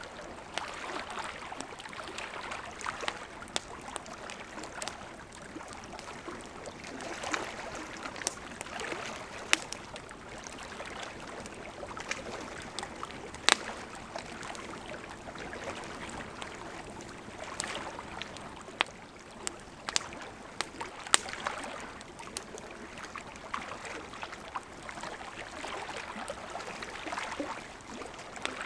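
Campfire burning: a steady hiss of flames with irregular sharp crackles and pops from the burning wood, the loudest pop about halfway through.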